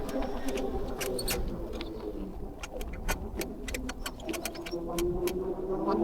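E-bike squeaking in short, irregular chirps as it is ridden, over a low rumble of tyres and wind. The squeak comes from parts that need greasing.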